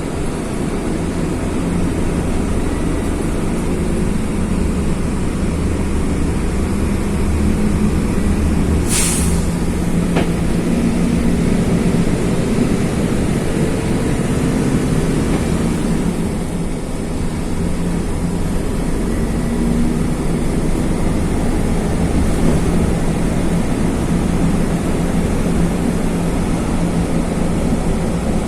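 Mercedes-Benz OF-1519 bus's OM-924 LA four-cylinder turbo diesel running on the road, its note wavering with load. About nine seconds in there is one short, sharp hiss of compressed air from the bus's pneumatic system.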